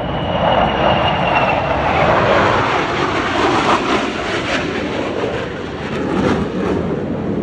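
Fixed-wing aircraft making a fast, low pass at an airshow: a loud engine rush that swells about a second in, eases, then swells briefly again near the end.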